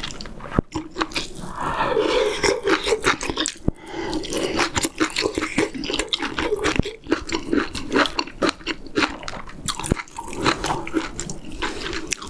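Close-miked chewing of soft stewed kimchi and pork back-rib meat: wet mouth sounds with many quick clicks.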